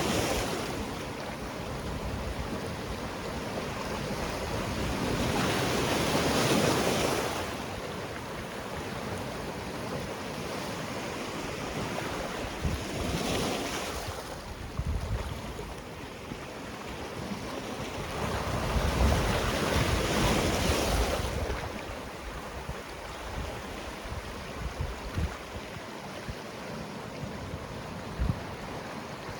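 Sea waves breaking on a rocky shore, rising and falling in swells, with three larger waves about five, thirteen and nineteen seconds in.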